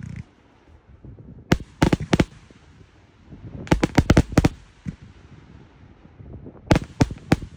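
Lost Souls 172-shot consumer fireworks cake firing: three volleys of sharp aerial bursts about two and a half seconds apart, each a quick run of three to six bangs.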